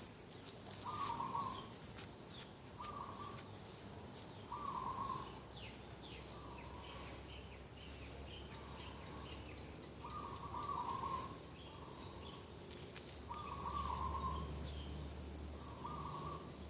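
A dove cooing: short calls repeated about eight times, every one and a half to two seconds, some louder than others. Smaller birds chirp faintly in between.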